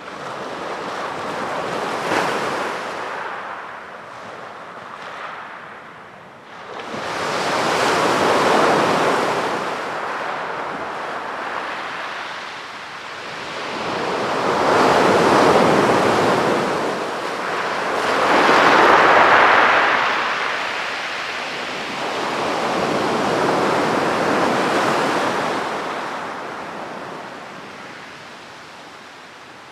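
Sea waves breaking on a beach and washing back, in slow surges of hiss every five or six seconds. The loudest wave comes about two-thirds of the way through.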